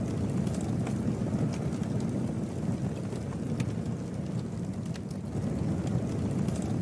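Wood campfire burning: a steady low rumble of flames with scattered sharp crackles and pops.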